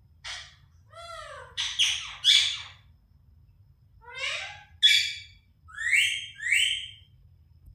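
Pet parrot calling: a string of loud squawks and screeches that swoop up and down in pitch, in three or four bursts with short pauses between them.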